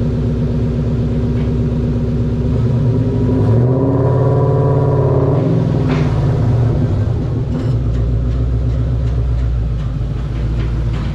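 2006 Ford Mustang GT's 4.6-litre three-valve V8 running through its exhaust as the car is driven off a chassis dyno. A few seconds in, the revs rise smoothly and fall back, then it settles into a deep, steady idle.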